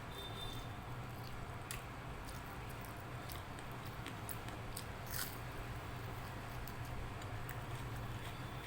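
A person eating rice, dal and fried vegetables by hand: chewing and wet mouth sounds with scattered small clicks and smacks, over a steady low hum.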